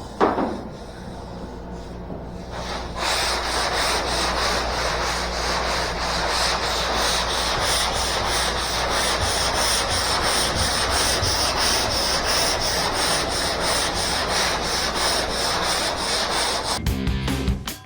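Sandpaper on a hand sanding block rasping back and forth over body filler on a car body, in quick, even strokes that start about three seconds in. Near the end it cuts to rock music.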